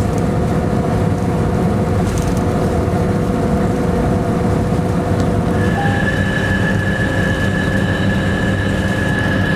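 Steady running noise inside a locomotive cab: a deep rumble with steady humming tones. A higher steady whine joins a little over halfway through.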